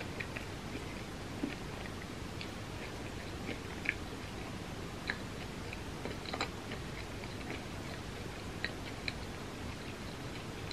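A person chewing soft bread spread with brownie-batter dip close to the microphone: scattered small wet mouth clicks and smacks over a steady hiss.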